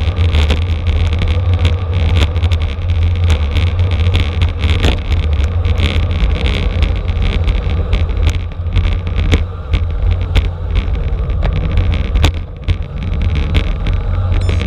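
Wind rumbling over the microphone of a camera riding on a bicycle at racing speed, with frequent sharp clicks and rattles.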